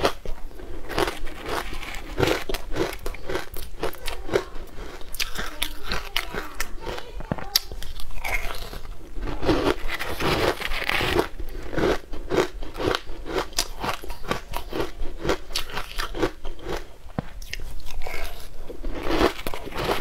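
Close-up crunching and chewing of dry, crumbly food: a dense, irregular run of crackly bites with no pause.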